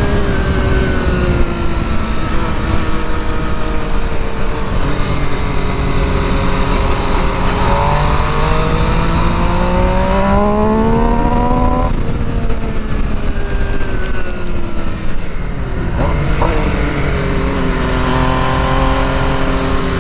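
Sport motorcycle engine pulling hard at track speed, its note falling and then climbing steadily before dropping sharply about twelve seconds in as the throttle is shut, then rising again near the end. A constant rush of wind on the microphone runs underneath.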